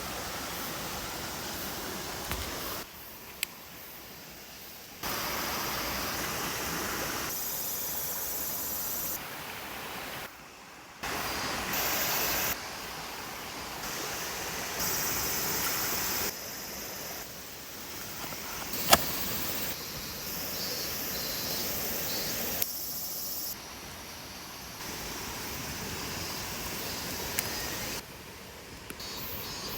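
Steady rushing outdoor noise whose level jumps abruptly every few seconds, with a few sharp cracks, the loudest about two-thirds of the way through.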